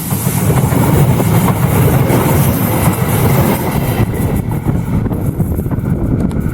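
A train passing close by: a loud low rumble of the cars rolling on the track. The higher hiss of the wheels thins out about four seconds in as the train moves on.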